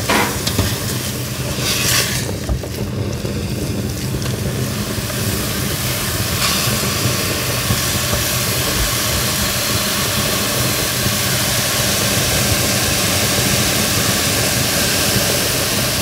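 Chopped onion frying in hot oil in a pot: a steady, loud sizzle, flaring up briefly about two seconds in.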